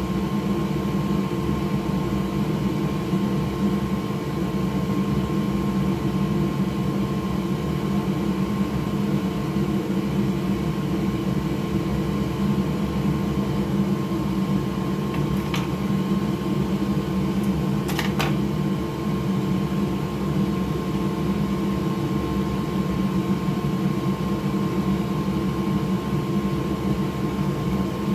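Small electric fan motor running with a steady hum and whir, the kind of blower used on a microsoldering bench. Two faint clicks come a little over halfway through.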